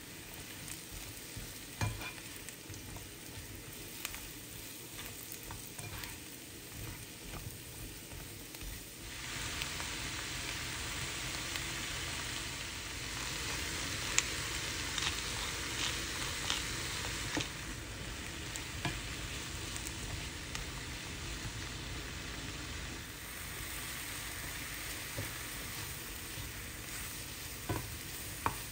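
Sliced baby bella mushrooms and onion sizzling in butter and oil in a nonstick frying pan, with the spatula scraping and tapping as they are stirred. The sizzle gets louder about nine seconds in.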